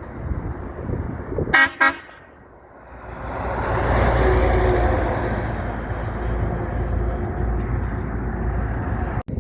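Big truck's horn sounding two short blasts about a second and a half in, then a heavy truck going by, its engine and road noise swelling to a peak and staying loud.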